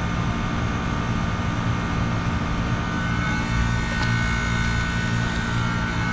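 Refrigeration unit of an R290 cooler running: compressor and condenser fan making a steady hum with a constant whine.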